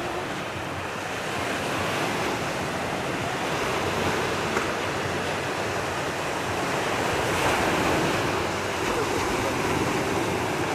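Sea waves washing on the shore, an even rushing wash that swells and eases.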